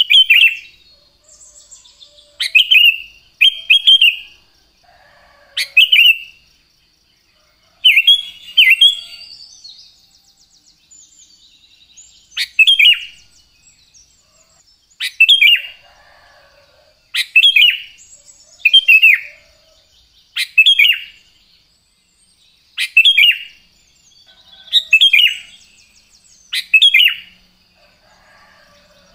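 Sooty-headed bulbul (kutilang) singing: short, loud, falling whistled phrases, repeated about every two seconds.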